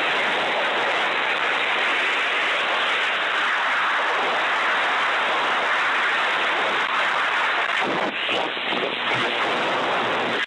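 Loud, steady rush of airstream wind across the microphone during a high-speed dive or free fall. About eight seconds in it becomes gusty and uneven.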